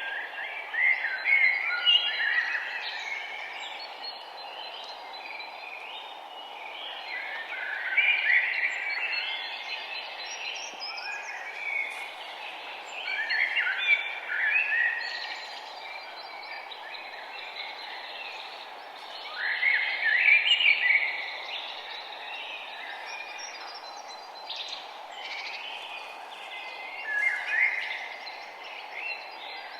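Birdsong: short bursts of chirping song phrases, about every six seconds, over a steady low background hiss.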